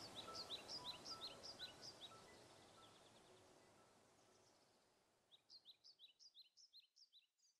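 Soft background music fading out, with faint bird chirps: quick short falling calls, about three a second, in a run at the start and another near the end.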